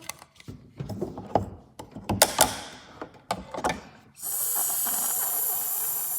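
Dishes and utensils clattering and clicking as they are handled. About four seconds in, a steady hiss of water running from a tap starts.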